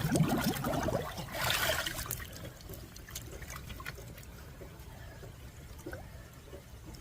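Water sloshing and splashing in a cold plunge tub, loudest in the first two seconds, then settling into quieter lapping with heavy rain falling on the water and scattered drips.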